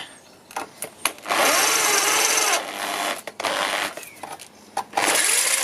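A handheld power tool running in short bursts: a long run of over a second, a brief one, and another starting near the end, its pitch swelling and sagging as it works.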